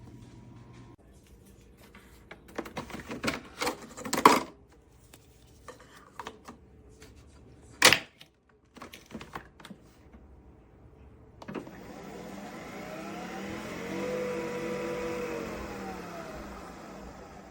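Clicks and knocks of handling, with one sharp click about eight seconds in, then a Nespresso Vertuo Pop+ coffee machine starts running. Its motor whirs, rising and then falling in pitch as it spins the capsule.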